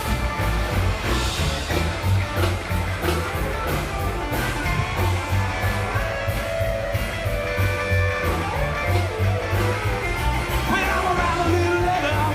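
Live rock and roll band playing: drums, bass and electric guitar driving a steady, even beat.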